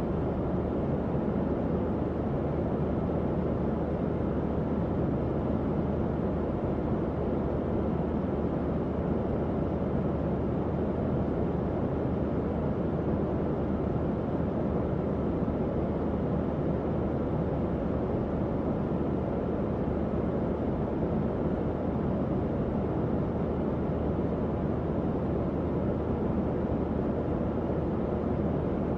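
Tower fan running steadily: a constant airflow whoosh, mostly low and mid in pitch, with a faint low motor hum underneath.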